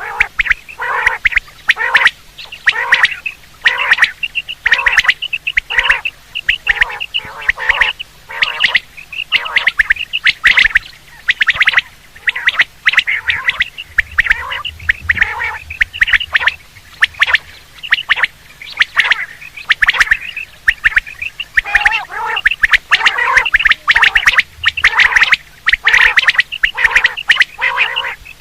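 Quail calls repeated rapidly and without pause, about two short calls a second, loud and harsh: a batair calling sound of the kind played to lure quail for hunting.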